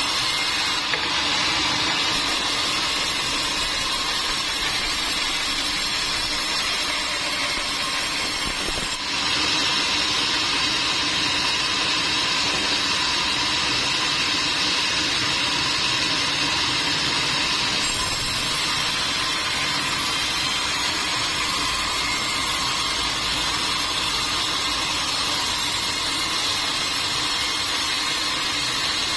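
Sawmill machinery running steadily, a continuous mechanical noise with abrupt shifts in tone about nine and eighteen seconds in.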